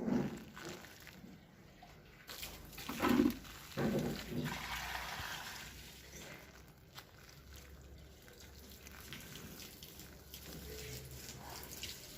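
Lumps of dry clay dropping into water with soft plops at the start and again about three to four seconds in, followed by a fizzing crackle that fades as the clay soaks and crumbles apart.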